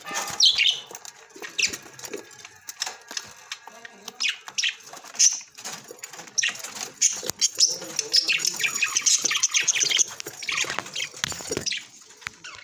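Budgerigars chirping and warbling: a constant run of short, high chirps that thickens into dense chatter about two thirds of the way through.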